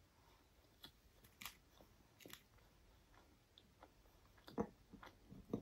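Close-miked chewing of a soft Indian sweet: faint, scattered wet mouth clicks and lip smacks, with two louder soft knocks near the end.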